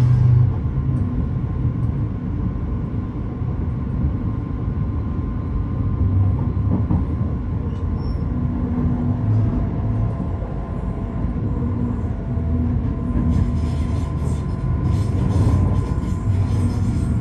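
A train running on the line with a steady low rumble and a faint steady whine. Near the end, high-pitched wheel squeal and rattle join in.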